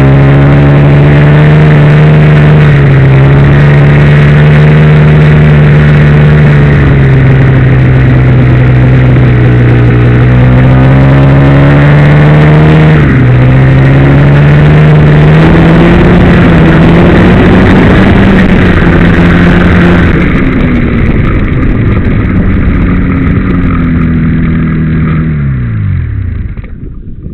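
Ski-Doo Blizzard MX snowmobile's two-stroke engine running loud and close, its pitch rising and falling with the throttle. Near the end it winds down and stops as it is shut off.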